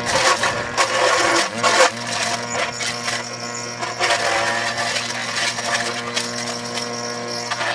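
Trapp forage chopper's motor running with a steady hum and an uneven, intermittent clatter. This is the abnormal motor noise that is the sign of a fault.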